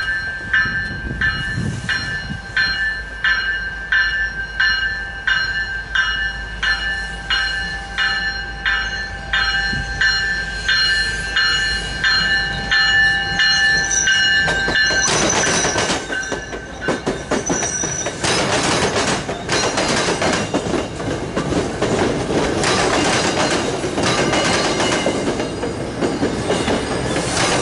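A bell rings steadily, about two strokes a second, as an MBTA commuter rail train approaches. About fifteen seconds in, the bi-level coaches, led by the cab car, pass close by with a loud rush of wheel and rail noise, clicking over rail joints, and a brief high wheel squeal.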